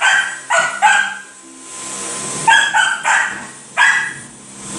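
A dog barking in short, high-pitched yaps: three quick barks, a pause of over a second, then four more.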